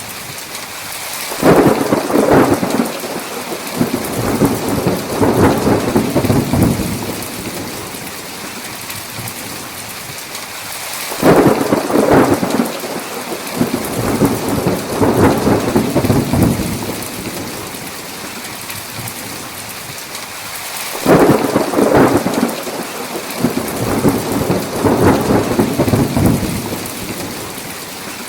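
Steady heavy rain with thunder rumbling three times, about ten seconds apart; each peal starts suddenly and rolls on for about five seconds before dying back into the rain.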